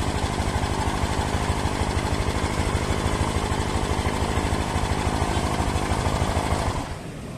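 Honda Vario 150's single-cylinder scooter engine idling steadily with a fast, even clatter, the strange noise that the owner traces to the magnet (flywheel) side of the engine. About seven seconds in the sound drops off sharply.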